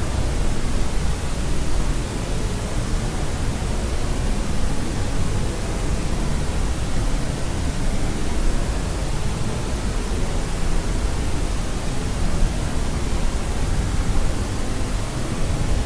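Continuous white-noise sleep track: an even, unchanging hiss, heavier in the low end than in the highs.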